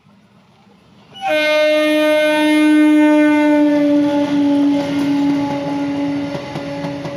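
Howrah–Katwa EMU local train sounding one long horn blast that starts suddenly about a second in and lasts about five seconds, its pitch falling slightly as the train comes past. The rumble and clatter of the coaches' wheels on the rails runs under the horn and continues after it.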